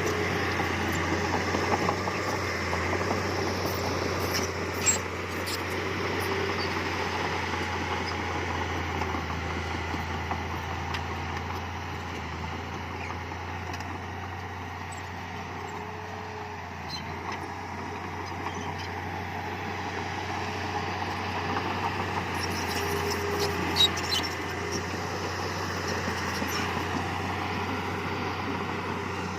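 Diesel engine of heavy earthmoving equipment running steadily under work, with two sharp knocks, one about five seconds in and one near the end.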